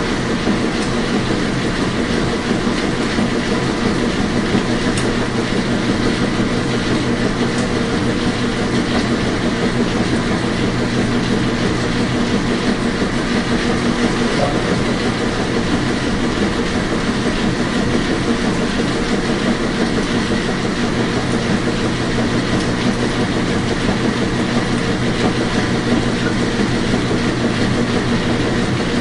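Washing machine running, a steady rumble with a low hum.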